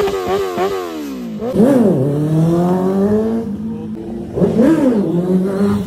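Honda CBR600's inline-four engine revved: a quick run of sharp throttle blips, then two longer revs up and down with steady running in between as the bike rides off.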